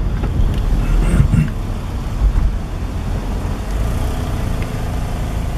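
Honda car's engine running as it creeps slowly forward, heard from inside the cabin as a steady low rumble, with a short thump about two seconds in.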